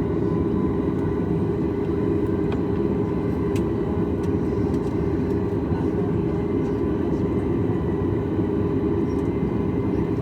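Steady low rumble inside the cabin of a Boeing 737 MAX 8 taxiing, its CFM LEAP-1B engines at low power, with faint high whine tones and no change in level.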